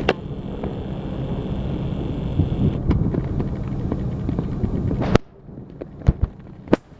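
Low rumbling noise with wind on the microphone aboard a ferry, broken by sharp knocks. The rumble cuts off suddenly about five seconds in, leaving a quieter background and a few more sharp knocks.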